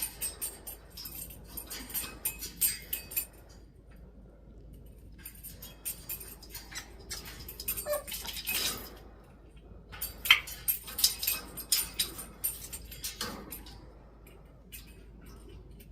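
African grey parrot moving about, making clusters of clicks, taps and scratching in three spells, with a few short squeaks about 8 and 10 seconds in.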